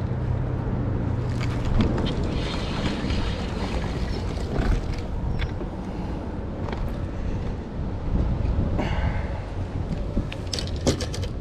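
A boat motor hums steadily under gusty wind noise, with scattered knocks and clicks, a cluster of them near the end.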